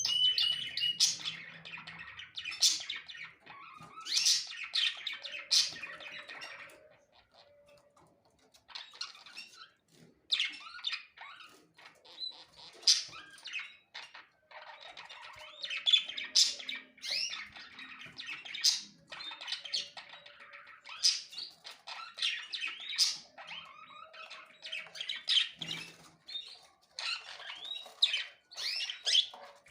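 Small birds chirping and squawking in quick series of short, sharp calls, dropping off for a couple of seconds about seven seconds in, then picking up again.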